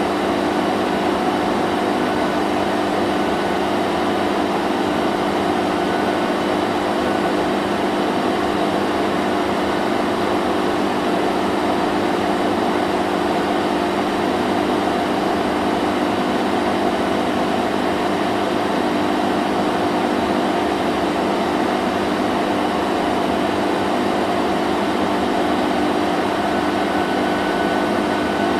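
Vacuum cleaner running steadily: a constant motor hum and rush of air, with no change in pitch or level.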